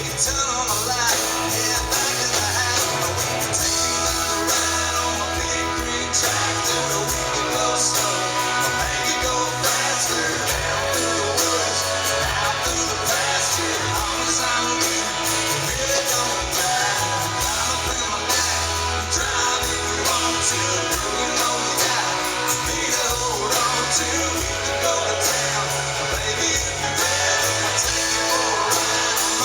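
Live country band music with a steady beat, guitar and singing voices.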